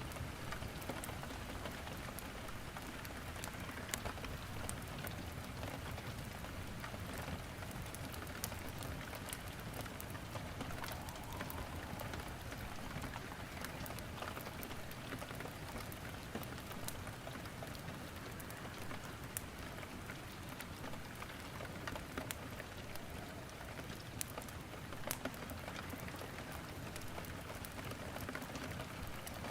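Steady rain with wood crackling in a fireplace: an even hiss of rain with scattered sharp pops every few seconds.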